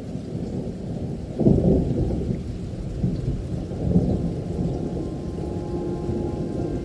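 Thunder rumbling over steady rain, with a loud swell about a second and a half in and another near four seconds.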